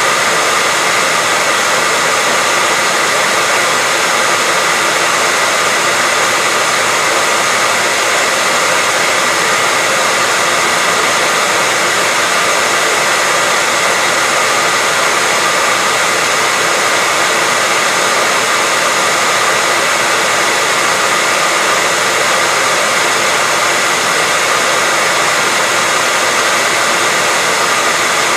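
Hair dryer blowing steadily, an even rushing noise with a faint whine of its motor and no change in speed or level.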